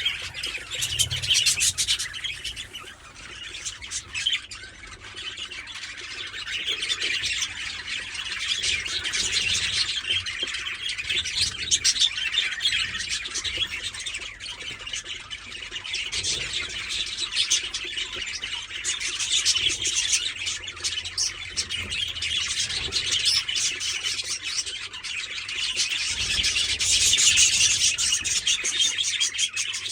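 Budgerigars chirping and chattering continuously in a dense stream of high, rapid calls, growing louder near the end.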